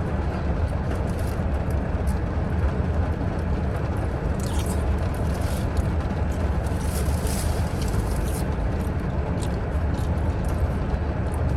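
Steady low rumble of a car, heard from inside the cabin. Light clicks and a brief crinkling sound sit on top of it in the middle.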